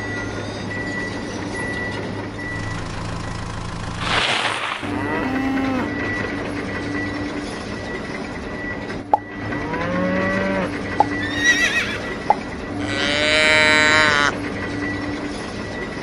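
Cows mooing several times, each call bending up and down in pitch, over a steady hum.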